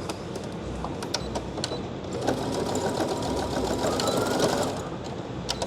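Brother Innovis computerized sewing machine stitching a seam on a fabric tote bag. It runs steadily, louder and busier from about two seconds in until near the end.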